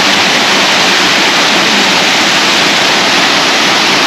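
Waterfall pouring down close to the microphone: a loud, steady rush of falling water.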